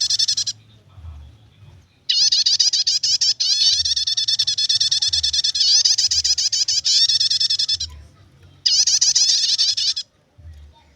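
Prinia (prenjak) giving its rapid chattering 'nyetater' call: fast runs of repeated high notes in a long burst of about six seconds, broken briefly once, then a shorter burst about two seconds before the end.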